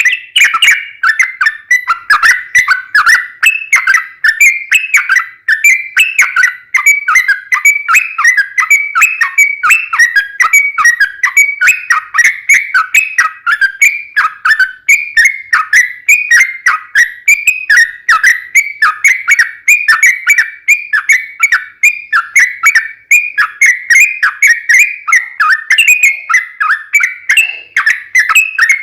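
Yellow-vented bulbul (trucukan) singing a long unbroken run of quick, bubbly repeated notes, several a second, with no pauses.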